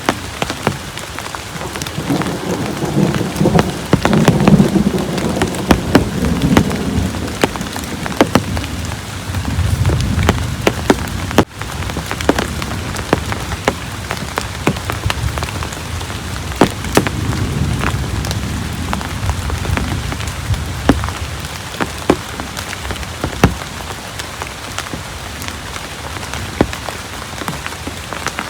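Heavy rain falling steadily, with many sharp clicks of single drops hitting a surface. Low thunder rumbles twice: a long roll from about two seconds in that fades by about eleven seconds, and another from about sixteen to twenty-one seconds.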